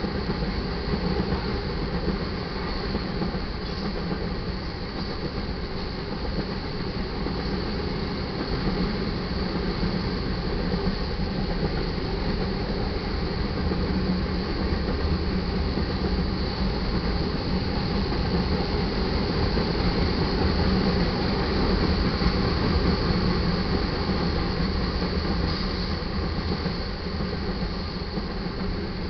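Iron ore cars of a freight train rolling steadily past, a continuous rumble of steel wheels on the rails.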